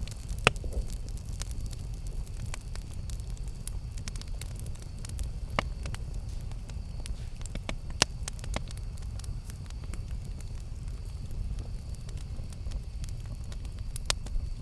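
Campfire crackling: frequent small snaps of burning wood over a steady low rumble of flame, with a few sharper pops, the loudest about half a second in and others around five and a half, eight and fourteen seconds in.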